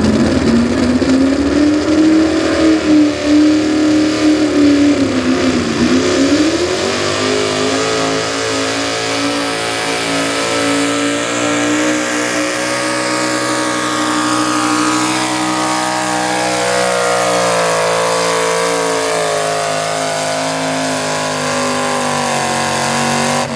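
Two-wheel-drive super stock pulling truck's engine at full throttle during a sled pull. The revs climb, dip briefly about six seconds in, then hold high and steady until the sound cuts off at the end.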